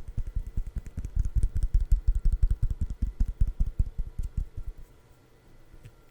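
Rapid fingertip tapping close to the microphone, a quick run of soft low thumps about eight to ten a second that dies away about four and a half seconds in.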